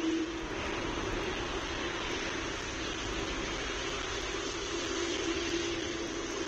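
Steady rushing background noise with a low steady hum that fades out early on and comes back near the end.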